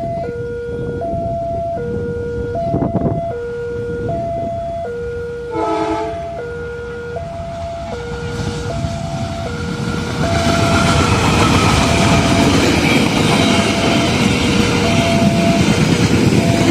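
Level-crossing warning signal chiming in an alternating two-note pattern, with a short train horn blast about six seconds in. About ten seconds in, a diesel-hauled passenger train arrives and the loud rumble of the locomotive and wheels takes over, while the crossing chime keeps sounding.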